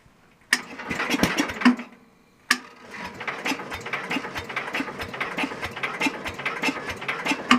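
Super 12 hydro garden tractor's electric starter cranking the engine twice, a short crank and then one of about five seconds, turning it over at about two and a half beats a second without it catching: the engine is not firing, and the title puts this down to no spark.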